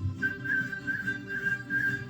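Cockatiel whistling a tune: one long, steady note held with slight wavers, over a low pulsing sound.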